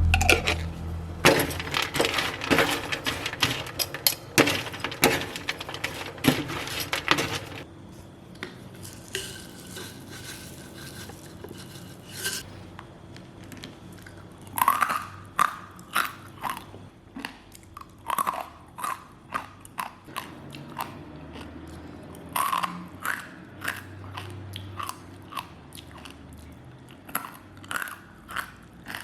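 Crisp homemade snacks being bitten and chewed. A dense run of crunching opens the stretch, followed by separate crisp bites and crunches about a second apart.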